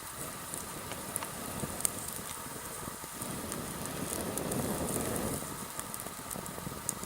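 Sawtooth oak firewood burning in a campfire, crackling with frequent small sharp pops. A low rushing sound swells up in the middle and fades again.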